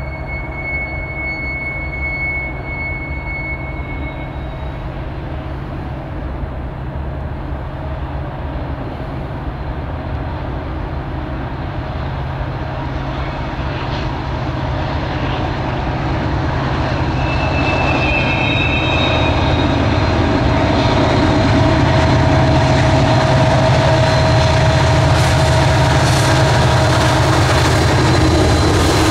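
Norfolk Southern diesel freight locomotives approach and pass close by, their engine rumble and rolling noise growing steadily louder through the second half. A thin high squeal sounds at the start and dies away about four seconds in.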